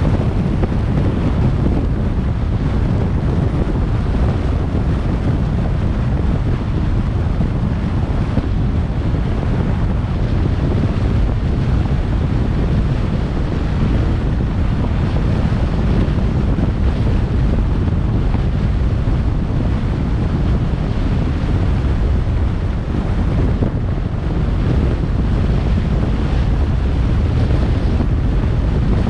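Steady, low wind rumble on the microphone from a moving car, mixed with road noise, holding an even level throughout.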